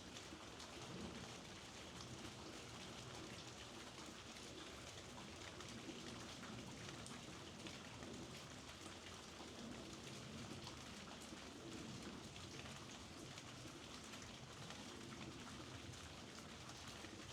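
Steady, soft rainfall, drops pattering on surfaces with scattered faint ticks of individual drops.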